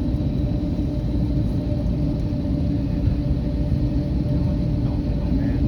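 Airbus A321neo airliner noise: a steady low rumble with a constant hum over it.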